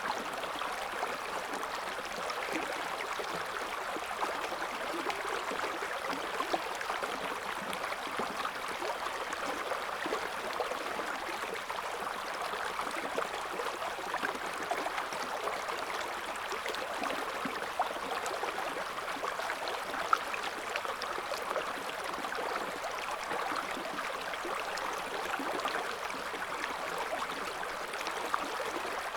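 A shallow river's current running steadily over stones, an even rush of water with fine gurgles and splashes throughout.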